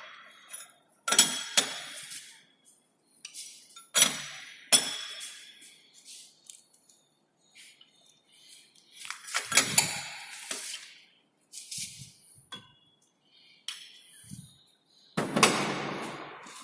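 Metal clinks and knocks with brief ringing, a handful of separate strikes at irregular intervals, the longest and loudest near the end: steel tooling being handled and fitted into a lathe's tailstock to mount a countersinking tool.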